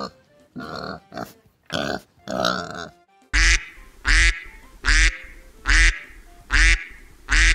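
A few short pig grunts, then from about three seconds in a duck quacking loudly in a steady series, roughly one quack every second.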